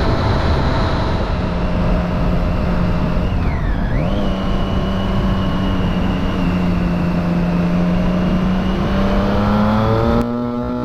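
Triumph Street Triple 675 inline-three engine with a Remus Hypercone exhaust and dB killer, running under way. About four seconds in, the revs dip briefly and come back, then climb slowly and steadily; near the end the engine sound cuts off abruptly.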